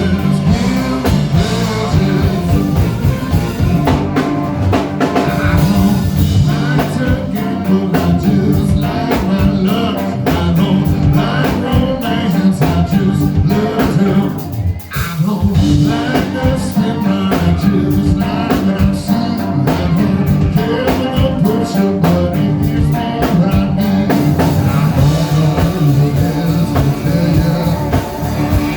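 Rock band playing a blues-rock number with guitar and drum kit, with a brief dip in the middle.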